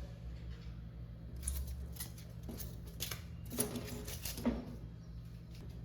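A few short, light clicks and scrapes, the sharpest about three and a half and four and a half seconds in, over a steady low hum.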